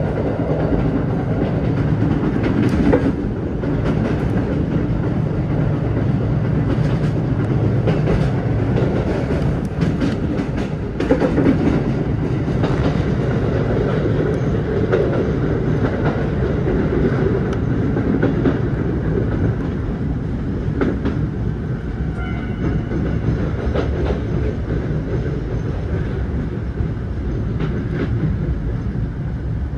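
Chichibu Railway express train heard from inside the passenger car: steady rolling and running noise with wheels clicking over rail joints, mostly in the first half. The noise eases a little toward the end as the train slows into the station.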